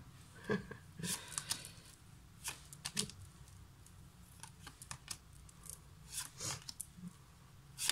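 Tarot cards being handled: irregular short rustles, flicks and light taps as cards are shuffled or turned over.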